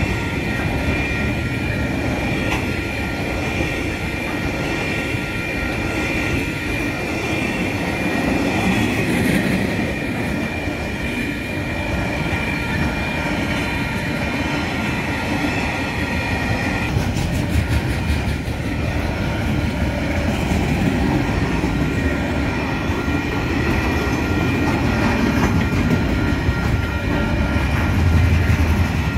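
A container freight train's wagons rolling past at speed, with wheels clattering over the rails and a steady rumble. A steady high tone sounds over it and stops a little over halfway through.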